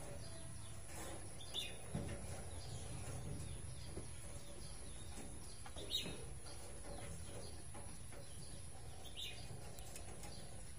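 Faint outdoor background with three short, high bird chirps, spaced a few seconds apart.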